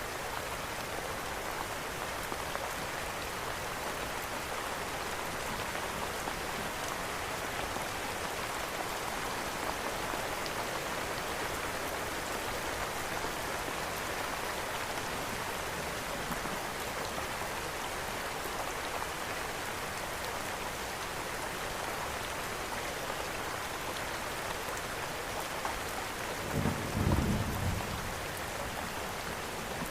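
Steady rain falling, mixed with a crackling fireplace, with a short low rumble of thunder near the end.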